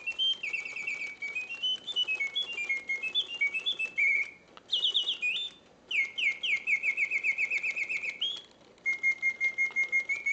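Mechanical singing birds of a 1968 Reuge double singing bird cage singing: a bellows-blown whistle giving fast pulsing chirps that step and glide between pitches in phrases with brief pauses, ending in a long trill held on one note.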